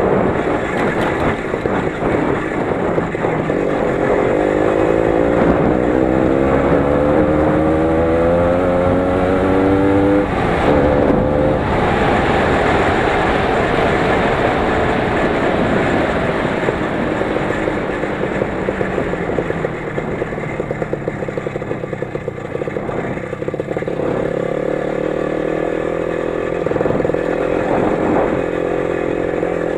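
A 20 hp motorcycle engine running under load on a forest track, rising steadily in pitch for several seconds, dropping briefly about ten seconds in, then running at a steadier speed.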